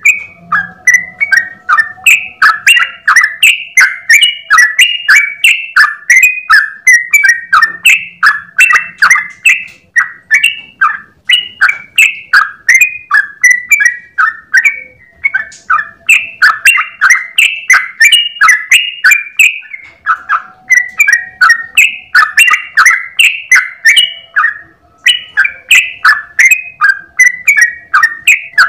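Yellow-vented bulbul (trucukan) singing a long, fast run of bubbling chattering notes, several a second, broken only by a few brief pauses.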